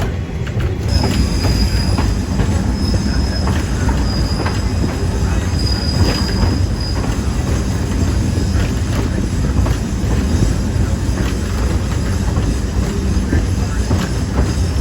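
A train rolling along the track with a steady rumble and faint clicks, while the wheels squeal in a thin high tone that comes and goes over roughly the first half.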